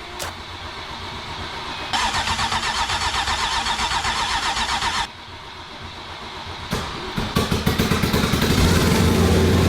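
Rebuilt Porsche engine, after being fully flooded with water, cranking on its starter with a steady rhythmic churn for about three seconds, then stopping. It is cranked again about seven seconds in, catches, and keeps running.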